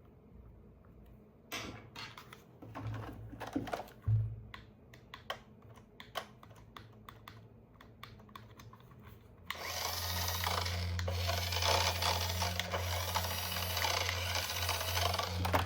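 Scattered plastic clicks and knocks of handling, then a small electric motor with gearing starts about ten seconds in and runs steadily with a low hum and a whirring hiss.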